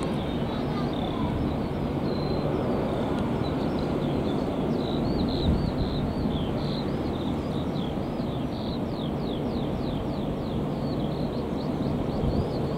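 A songbird chirping, with a quick run of falling whistled notes past the middle, over a steady low rumble from a Boeing 777-300ER's engines on final approach.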